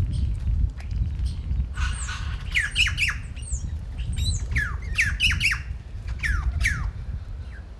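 Birds at a feeding spot squawking, with a harsh call about two seconds in followed by a rapid run of short, downward-sliding calls that stop about seven seconds in. A steady low rumble runs underneath.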